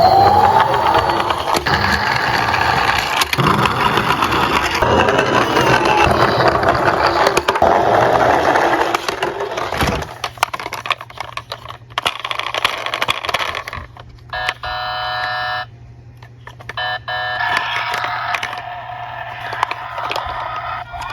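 Plastic toy cars rolling and rattling down a slope, mixed with electronic toy siren wails. About fourteen seconds in there is a steady electronic tone lasting a second and a half.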